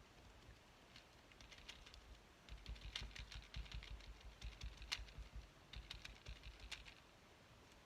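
Sponge dauber dabbing paint onto a paper journal page: a faint, rapid, uneven run of light taps, starting about two and a half seconds in and stopping about a second before the end.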